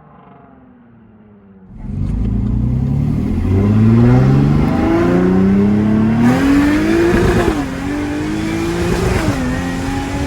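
Jaguar F-Type V6 S's supercharged 3.0-litre V6 accelerating hard through the catless downpipes, straight pipes and TotalFlow mini mufflers. The exhaust note opens up loudly about two seconds in and climbs in pitch through a run of quick upshifts, with two more shifts near the end.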